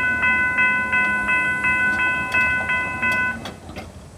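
Railroad grade-crossing warning bell ringing about three times a second, then cutting off about three and a half seconds in, followed by a few faint clicks.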